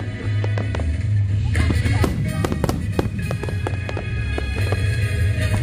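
Aerial fireworks bursting and crackling in quick succession, the bangs thickest from about a second and a half in, over steady music.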